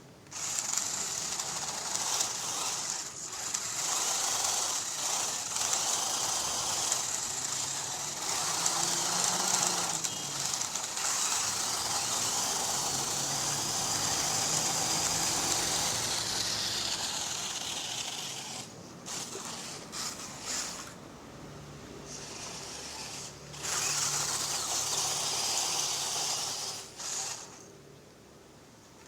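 RC rock crawler's stock electric motor and gearbox whining as it drives, freshly tuned, with the pitch rising and falling as the throttle changes. It stops briefly a few times, and goes quiet near the end.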